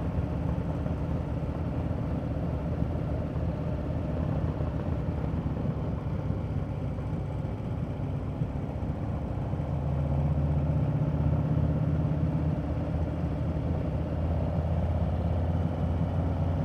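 Harley-Davidson motorcycle engine running at road speed, a steady low drone that grows a little louder about ten seconds in.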